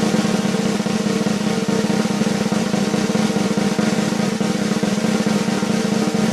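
A snare drum roll: very fast, even strokes held steady without a break.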